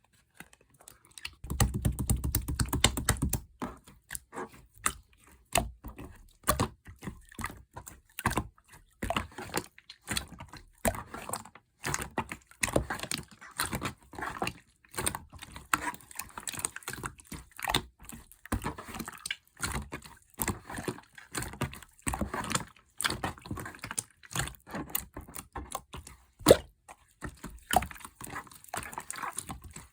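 Slime being squished, stretched and poked by hand, a steady run of irregular sticky clicks and pops. Shortly after the start there is a denser, fuller squelch lasting about two seconds.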